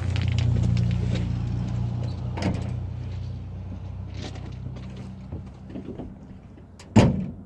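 1982 Chevy K10 pickup engine, heard at the exhaust, starting from cold: it catches and runs low and steady, gradually sagging, then a sharp thump near the end as it dies out. The owner puts the stall down to pumping the gas while the engine was cold.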